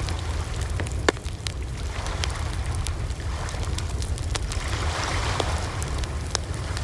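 Campfire burning with a steady low rumble and scattered crackles and pops of burning wood, the loudest pop about a second in.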